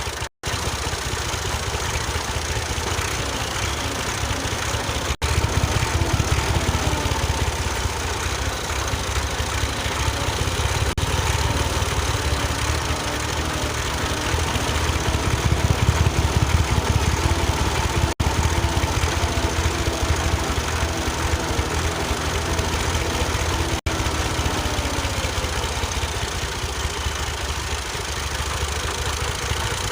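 An engine runs steadily with a low, rapid chugging, its pitch drifting a little. It breaks off for an instant a few times.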